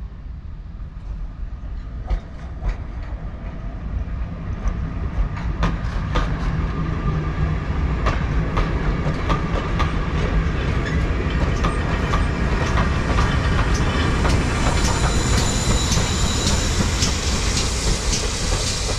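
A train running close by: a heavy low rumble that builds over the first several seconds with the clickety-clack of wheels over rail joints, then fades near the end.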